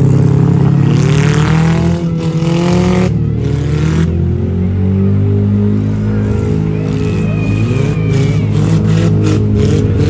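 Several demolition-derby vehicle engines running and revving at once, their pitch climbing in the first two seconds. A run of sharp bangs comes near the end.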